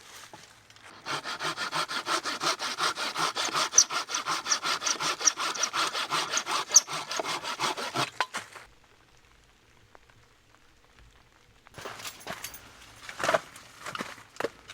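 Hand saw cutting through a piece of firewood with quick, even back-and-forth strokes for about seven seconds, then stopping. A few knocks and rustles follow near the end.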